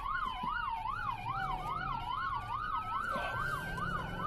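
Police car sirens during a pursuit: one siren on a fast yelp, about three to four sweeps a second, layered over a second siren on a slow rising and falling wail, with vehicle engine noise underneath.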